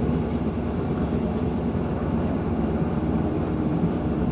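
Steady running noise inside a Class 158 diesel multiple unit's passenger coach at speed: a low underfloor diesel engine drone mixed with the rumble of the wheels on the track.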